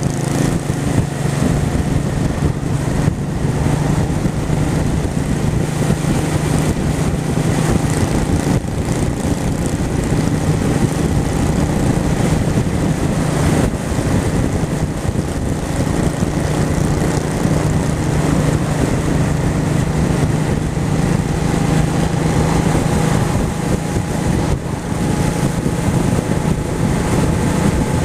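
Honda Shadow V-twin motorcycle engine running steadily while riding at a constant speed, with wind noise rushing over the microphone.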